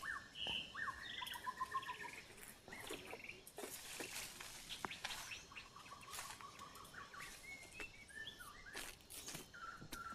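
Birds calling in the forest, a run of short chirps and whistled notes one after another. Scattered sharp clicks and brief rustles run alongside.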